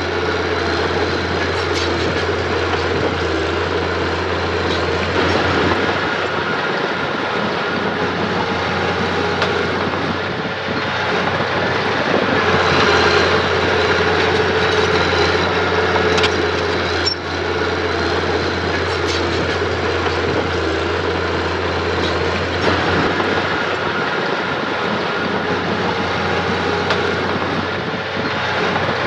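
Diesel engine of earthmoving machinery running steadily under load, with occasional metallic clanks and rattles.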